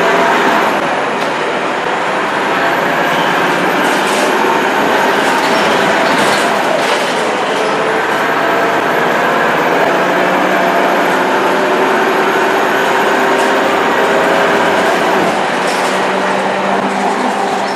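Scania K230UB bus's diesel engine running steadily under way, with a thin high turbo whistle that comes in after a couple of seconds and fades out near the end, and a few short rattles.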